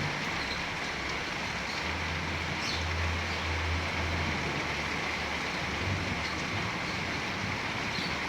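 Heavy rain pouring steadily, with a low rumble from about two to four seconds in.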